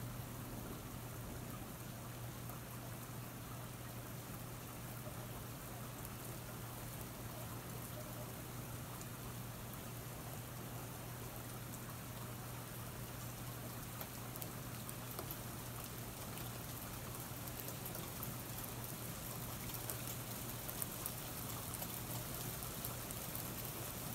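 Steady rain falling, an even hiss with scattered drop ticks that come more often near the end, over a steady low hum.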